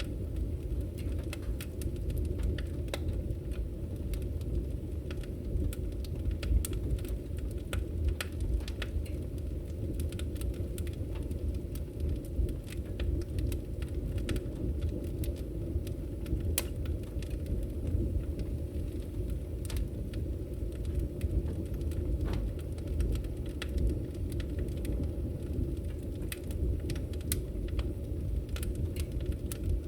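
Wood fire burning in a fireplace: a steady low roar of the flames with frequent sharp, irregular crackles and pops from the burning logs.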